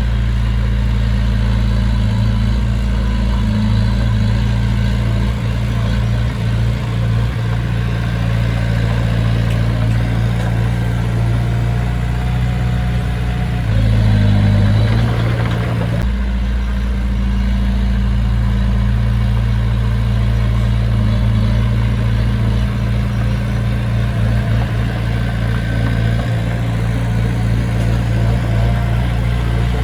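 Diesel engine of heavy construction machinery running steadily, briefly louder about halfway through.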